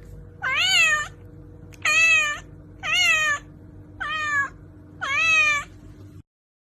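British Shorthair cat meowing five times, about once a second, each meow about half a second long and rising then falling in pitch.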